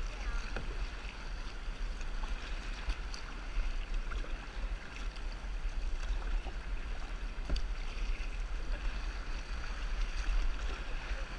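Water lapping and splashing around a kayak on the open ocean, with a steady low rumble of wind on the microphone.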